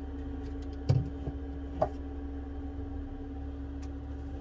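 Steady low electrical hum with a constant tone, broken by two short light taps or clicks about one and two seconds in, as small tools or parts are handled on a repair bench.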